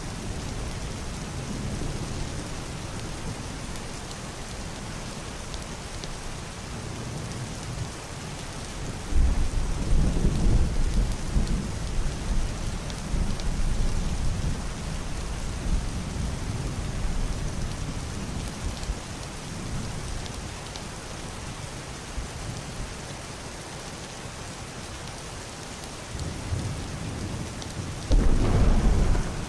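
Heavy rain falling on a roof and window glass, a steady hiss. Deep, muffled thunder rumbles in about nine seconds in and fades over several seconds, and a second roll begins near the end.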